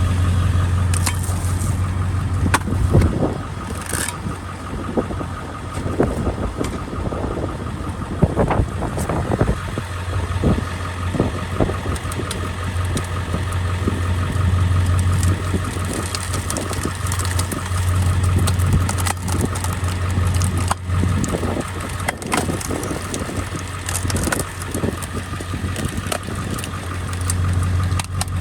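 Truck engine idling steadily in drive at about 750–800 RPM, turning a Stickler screw-cone log splitter; the cone screws into a log with many irregular cracks and creaks of splitting wood.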